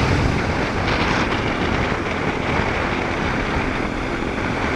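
Steady rush of wind and road noise on the microphone while riding a BMW R 1250 GS Adventure motorcycle on a wet road.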